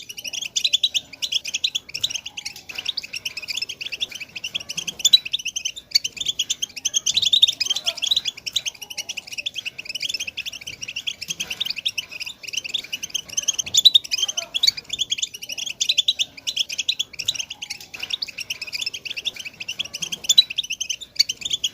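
A flock of European goldfinches twittering together. Many fast, overlapping chirps run on without a break.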